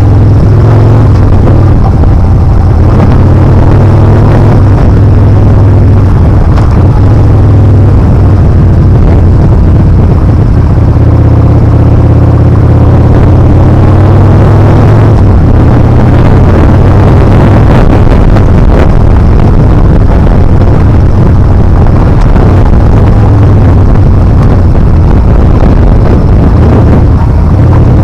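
Yamaha Bolt R-Spec's air-cooled V-twin running on the move, its pitch rising and falling with the throttle, under loud wind rush on the microphone.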